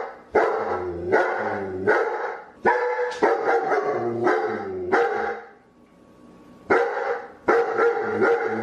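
A dog barking repeatedly, about one or two barks a second, some sliding down in pitch. There is a pause of about a second past the middle before the barking starts again.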